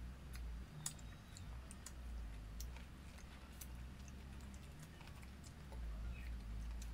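Close-up eating sounds: chewing and biting into corn on the cob and shrimp, heard as scattered small clicks and crackles over a low steady hum.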